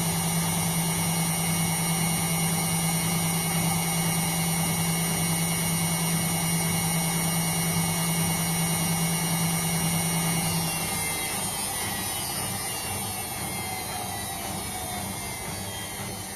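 Indesit washing machine spinning at a steady speed with a steady hum and high whine. About two-thirds of the way in the motor cuts out and the drum coasts down, its whine falling in pitch as it fades.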